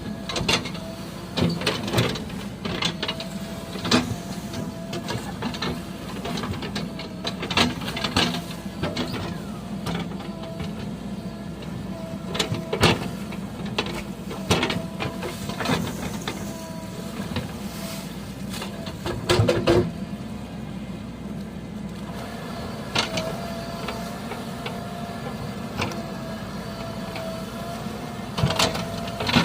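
JCB 3DX backhoe loader's diesel engine running, with a steady wavering whine over the low engine note. Repeated sharp knocks and clanks come at irregular intervals, with a cluster of them around two-thirds of the way through.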